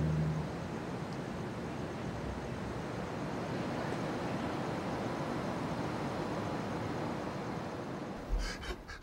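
Steady night-time outdoor ambience: an even hum like distant traffic with a faint, regular high ticking over it, after the last notes of an acoustic guitar die away. A few soft knocks come near the end, then the sound cuts off.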